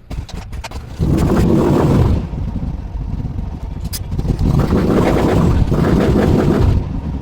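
Royal Enfield Bullet's single-cylinder engine catching about a second in after a few clicks, then running loudly with rapid exhaust pulses. It eases off after a second and is revved up again about halfway through.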